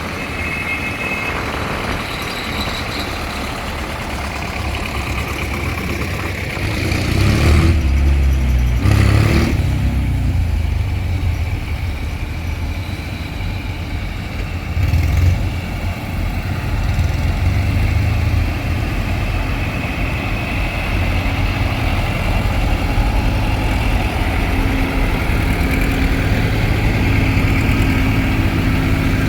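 Tractor engines running, with one growing louder and revving about seven to ten seconds in.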